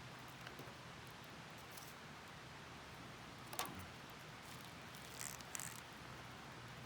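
Wood campfire burning quietly: a faint steady hiss, with one sharp crackle about three and a half seconds in and a few softer ticks a couple of seconds later.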